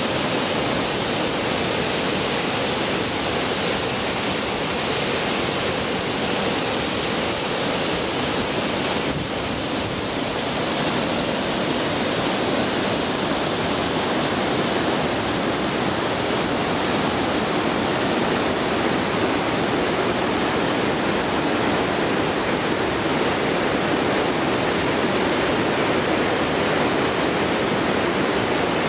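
Fukube Falls: the steady rush of a waterfall, a dense even noise of falling water that shifts slightly in tone about nine seconds in.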